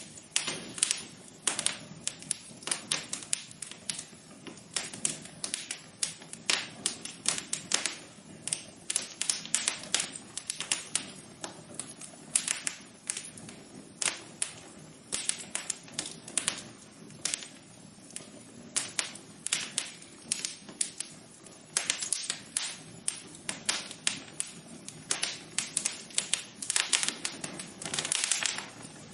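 Wood fire crackling in a fireplace: irregular sharp pops and snaps in quick clusters over a steady low rush.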